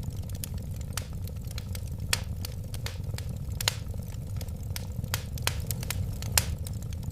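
Wood fire crackling: frequent sharp irregular pops and snaps over a steady low rumble of burning.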